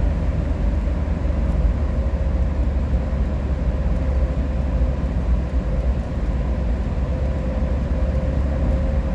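Steady low road and engine rumble inside a moving vehicle's cabin, with a faint steady tone running through it.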